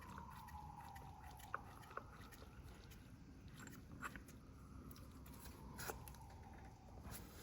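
A faint siren wailing, its pitch sliding slowly down, then rising and falling again later, with a few light clicks in between.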